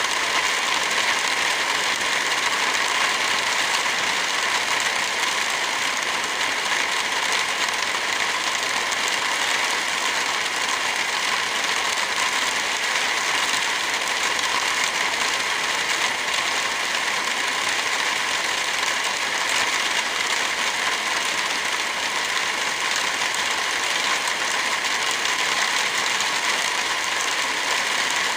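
Heavy rain falling steadily: an even hiss with little low rumble, unchanging throughout.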